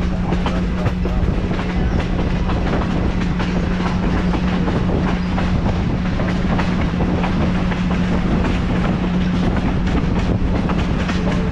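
Passenger car of a train rolling along the track: a steady low hum and rumble from the wheels, with frequent clicks and clacks from the rails.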